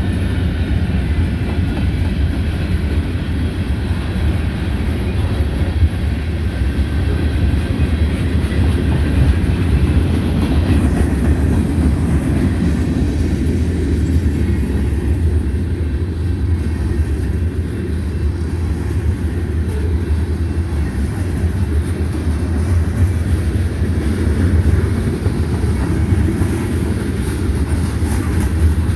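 Freight train rolling by, a steady loud low rumble of wheels on the rails.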